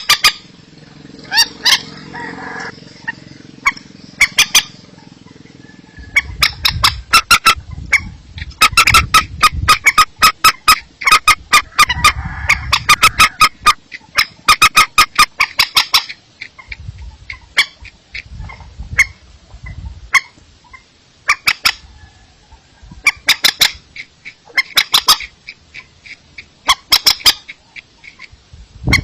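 Rice-field bird calls played as a lure recording: runs of quick, sharp clicking calls, several a second, repeated with short pauses between runs.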